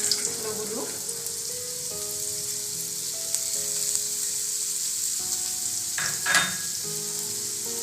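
Cubed potatoes frying in hot oil in a tawa, with a steady sizzle. A spatula stirs them once, louder, about six seconds in.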